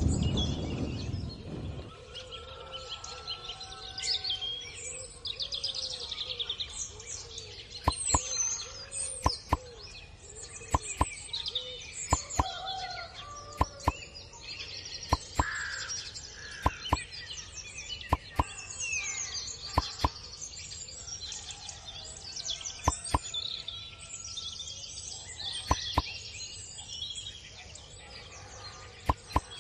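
Birds chirping and singing throughout, with a low rumble dying away over the first two seconds. From about eight seconds in, sharp taps or knocks come every second or two and are the loudest sounds.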